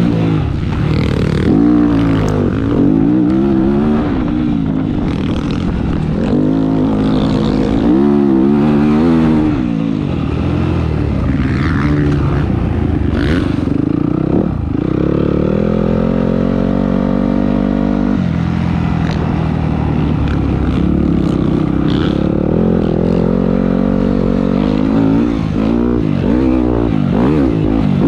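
Motocross bike engine heard from on board, revving up and falling off again and again as it pulls through the gears and backs off, with a couple of longer rising pulls in the middle.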